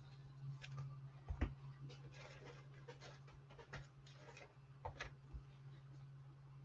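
Faint handling noise: scattered light taps, clicks and short rustles over a steady low hum.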